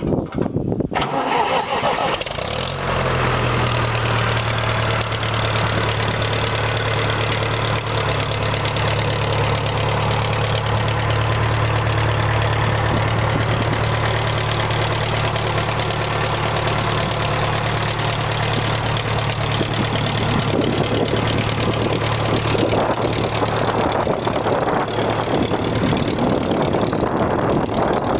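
A 1974 International Harvester 574 tractor engine starting and catching, then idling steadily. The note grows rougher and less even in the last several seconds.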